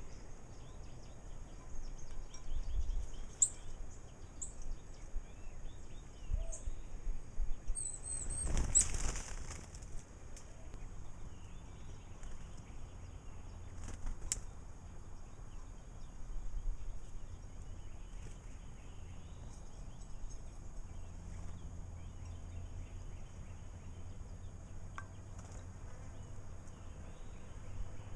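Small birds at a bird bath: a brief burst of wing flapping about nine seconds in, with a few short, high chirps scattered through.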